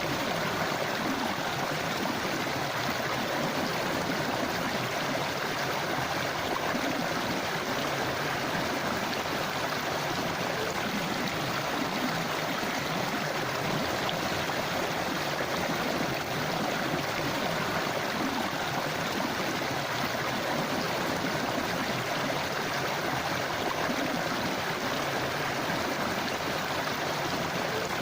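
River water flowing and gurgling over stones, a steady rushing with no change.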